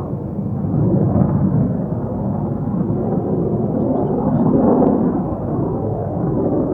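Distant rumble of a McDonnell Douglas F-4 Phantom's twin General Electric J79 jet engines as the jet flies a display pass. The sound swells and eases twice.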